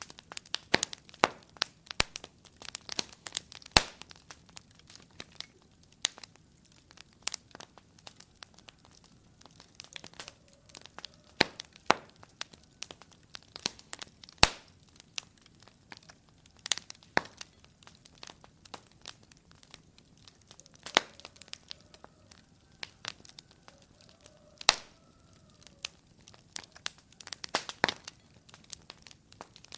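Fire in a fireplace crackling, with irregular sharp pops and snaps, some much louder than the rest, and a faint whistle now and then.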